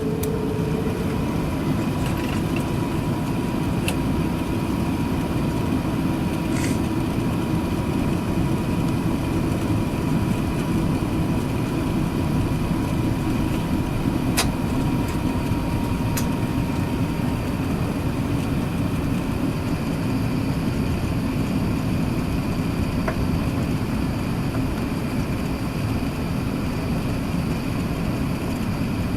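Steady low rumble inside the cabin of an Airbus A380-861 with its engines running just before takeoff. A faint steady tone runs through about the first half, and there are a few light clicks.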